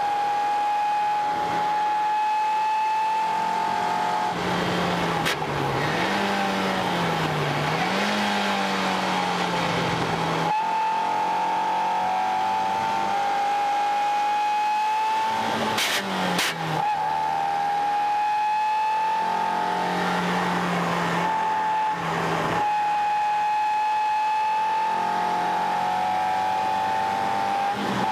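A 1997 Mazda Miata's stock 1.8-litre four-cylinder engine heard from inside the cabin, running hard at high revs on a track lap. About four seconds in the revs drop and wander lower through a corner, then climb back to full throttle, with quick gear changes near the middle and another brief lift past two-thirds of the way.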